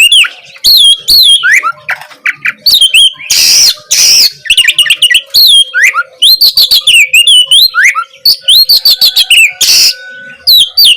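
Oriental magpie-robin (kacer) singing a fast, varied song of whistled notes that slide up and down, broken by harsh rasping notes, two about three and a half to four seconds in and one near the end.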